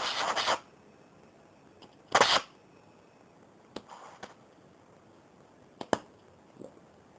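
Hobby gas torch being lit: a short hiss of gas at the start, a louder short burst about two seconds in, then a few fainter hisses and one sharp click.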